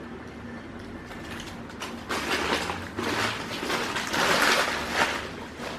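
Crinkling and rustling of plastic food packaging being handled, in uneven surges starting about two seconds in.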